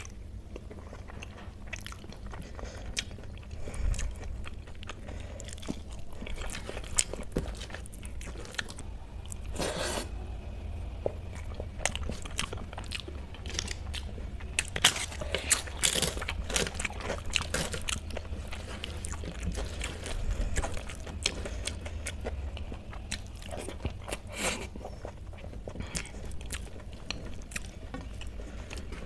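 Close-miked eating by hand: wet chewing and mouth smacking of rice in kadhi, with several louder crunchy bites of a crisp fried snack, most of them about halfway through.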